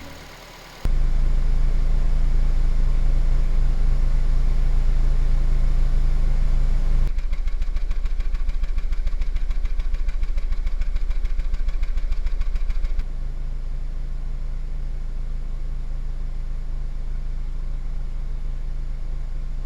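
Petrol car engine idling steadily, heard in three spliced takes that cut abruptly about a second in, about seven seconds in and about thirteen seconds in; the middle take has a fast, even pulsing.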